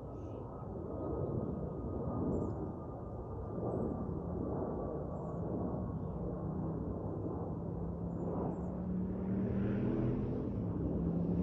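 Yamaha FZ-07 parallel-twin with a full aftermarket exhaust heard at a distance as a rough, echoing rumble. From about eight seconds in, a steady engine note comes through and grows louder as the bike draws nearer.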